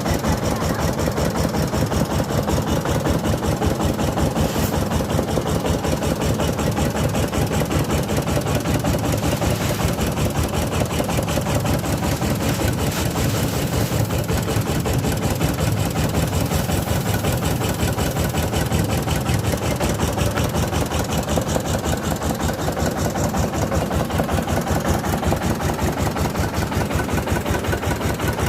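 Diesel engine of a mobile rice milling machine running steadily, with a fast, even pulsing beat.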